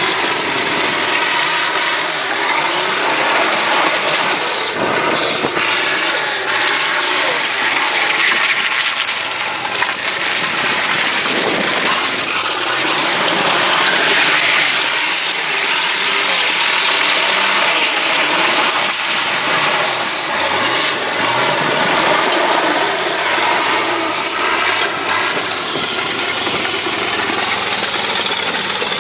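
Turbocharged six-cylinder engine of a Chevrolet Caravan running loud and revving, its pitch rising and falling as the car is driven on dirt.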